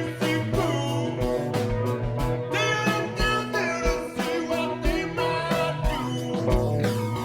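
Live blues-rock band playing: electric guitar with bending notes over bass and a steady drum beat.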